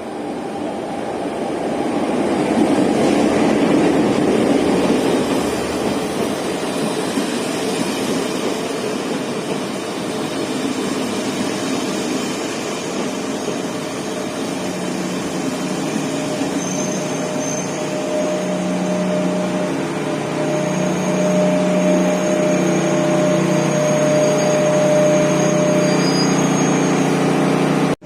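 Steady running noise of a diesel-hauled local train. A broad rush swells over the first few seconds, and from about halfway a steady low engine hum and a higher steady tone settle in.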